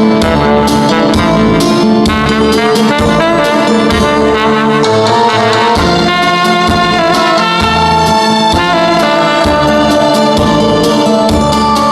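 Tenor saxophone playing a trot melody in long held notes over a backing track with a steady bass-and-drum beat.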